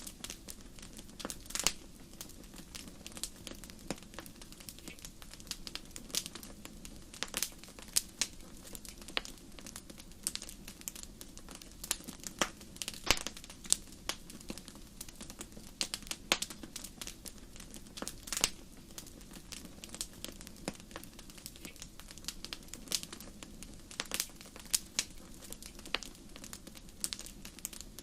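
Fire crackling in a fireplace: irregular sharp pops and snaps, several a second, with a few louder pops, over a low steady rush.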